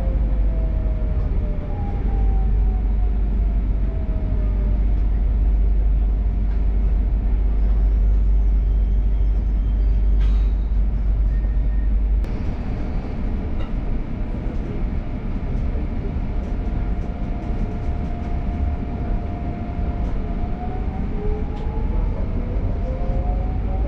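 Electric regional train heard from inside the carriage: a low running rumble under the whine of the traction motors. The whine falls in pitch over the first few seconds as the train slows, holds steady for a while, then rises again near the end as the train picks up speed.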